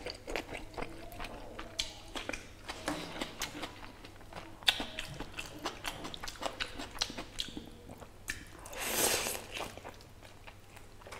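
Close-miked eating sounds of mutton marrow-bone curry and rice eaten by hand: wet chewing, lip smacks and sticky clicks, with a longer swell of mouth noise about nine seconds in.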